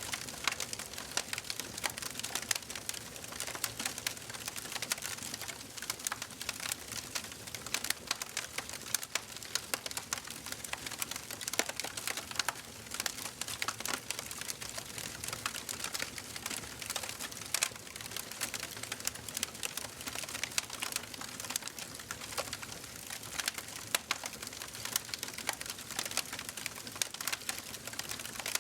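Wood fire crackling in a fireplace: dense irregular pops and snaps over a steady hiss of the flames.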